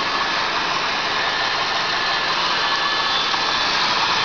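1995 Cadillac Fleetwood's LT1 350 V8 idling, heard from the open engine bay as a steady whirring hiss with a faint steady whine.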